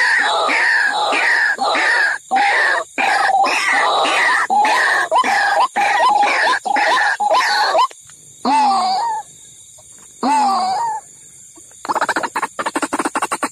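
White-breasted waterhen (ruak-ruak) lure calls: loud, harsh calls repeated about twice a second, then two longer single calls after a short gap, and a fast pulsing call series starting near the end.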